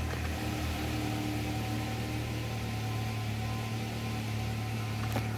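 2021 Nissan Altima engine idling steadily just after starting. This is the car running again once the faulty IPDM behind its no-crank, no-start fault has been replaced.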